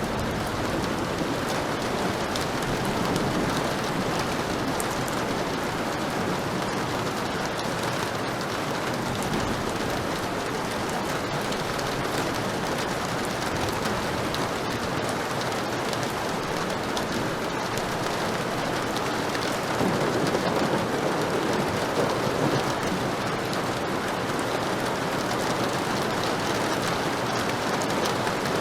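Heavy rain falling steadily, with a slight swell of low thunder rumble about two-thirds of the way through.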